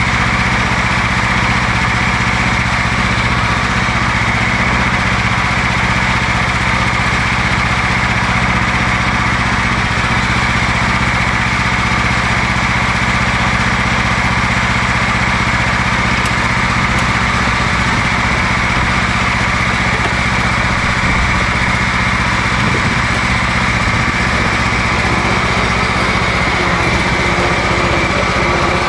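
John Deere LX172 lawn tractor engine running steadily, warming up after a cold start following about three months of sitting.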